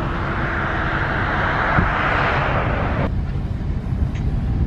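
Road and engine noise inside a moving vehicle: a steady low rumble. Over it a rushing hiss builds and then cuts off suddenly about three seconds in.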